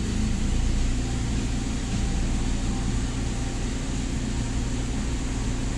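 Toyota Hilux Revo engine idling steadily, in a truck being checked for hard starting.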